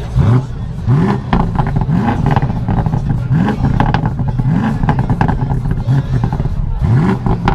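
BMW M850i's twin-turbo 4.4-litre V8 being blipped with quick stabs of the throttle: about seven short rises in revs, most under a second apart, with a longer gap late on. Sharp crackles come through between the blips.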